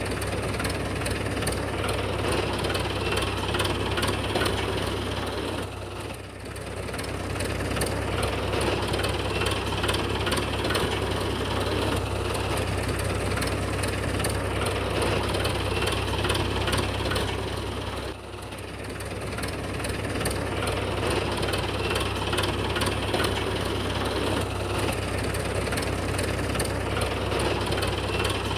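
An engine or motor running steadily, dipping briefly twice.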